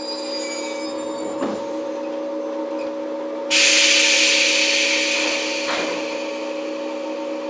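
Inside a JR 115 series electric multiple unit motor car: a steady electrical hum from the car's equipment, with a high whine fading out in the first second. About three and a half seconds in, a sudden hiss of released compressed air starts loud and fades over a couple of seconds.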